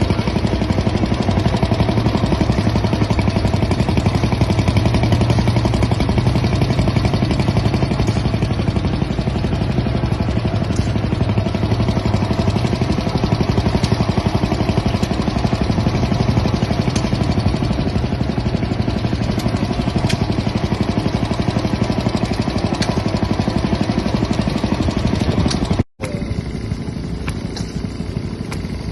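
An old engine running steadily with rapid, even firing. About 26 s in it cuts off abruptly to a quieter engine sound.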